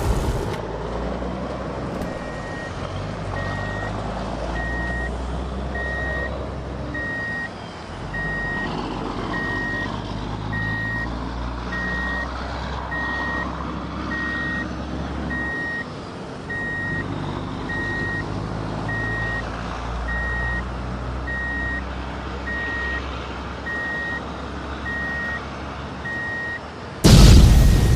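A heavy vehicle's reversing alarm beeps steadily about once a second over a low, rumbling engine. A loud, noisy blast sounds at the very start and another about a second before the end.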